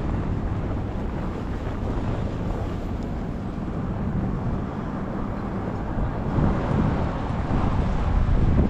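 Blizzard wind buffeting the microphone as a steady low rumbling noise, with city street traffic beneath, getting a little louder in the last couple of seconds.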